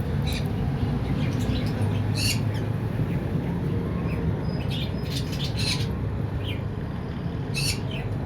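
Pet lovebird giving short, shrill squawks and chirps, about five or six calls a second or more apart, over a steady low background hum.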